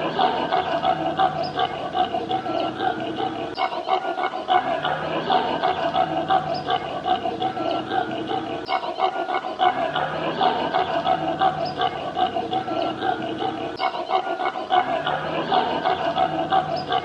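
Animal calls: dense, rapid pulsing sounds in a pattern that repeats about every five seconds.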